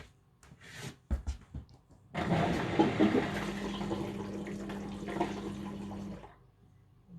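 Indesit washing machine: a few clicks, then water rushing through the machine for about four seconds with a steady hum, cutting off near the end.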